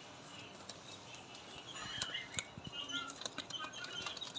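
Small caged parrots (budgies and lovebirds) chirping in short, quick calls, busier in the second half, with wing flutters and light clicks.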